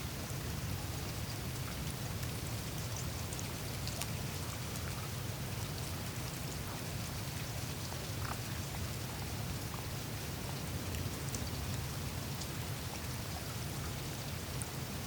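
Meltwater trickling and dripping over the melting surface of the Greenland ice sheet, with many small scattered ice clicks and ticks over a steady low rumble.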